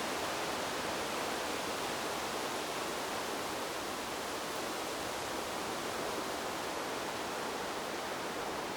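Wind blowing through a bamboo grove: a steady, even rush with no gusts or breaks.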